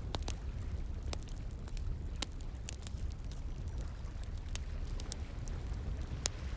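Wood fire crackling, with irregular sharp pops and snaps, over the steady low rush of running water.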